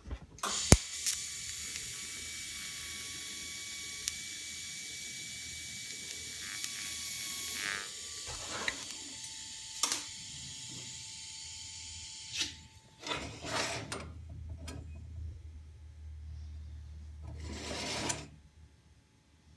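TIG welding arc struck with a sharp crack and running as a steady hiss for about seven seconds while a tack weld is laid. It is followed by several knocks and clicks as the parts are handled.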